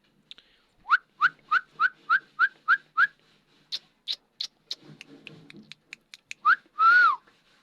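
Pet parrot whistling: a quick run of eight short, rising whistle notes at about three a second, then a series of sharp clicks, then a longer whistle that rises and falls near the end.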